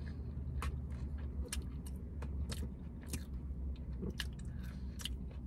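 Close-up chewing of a falafel pita wrap, with short wet mouth smacks and clicks scattered irregularly through it, over a steady low hum.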